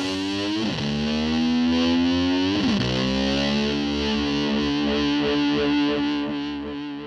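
Rock music: distorted electric guitar holding chords, with two pitch slides about a second in and near three seconds, then a sustained chord fading out near the end.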